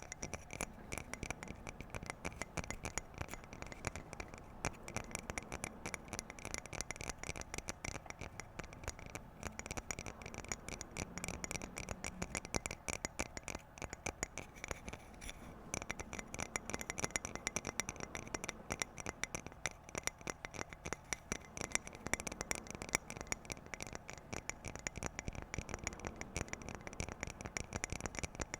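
Fast, continuous tapping on objects: many small taps a second without a break.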